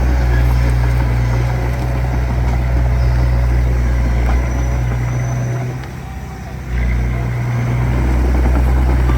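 D20P bulldozer's diesel engine running steadily, easing off for about a second some six seconds in, then picking back up.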